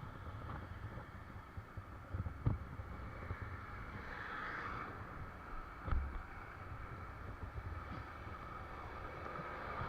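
Low, uneven rumble with a couple of dull knocks, about two and a half and six seconds in.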